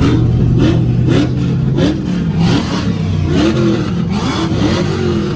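Truck engine revving, its pitch climbing and dropping several times in quick succession, with sharp cracks in between.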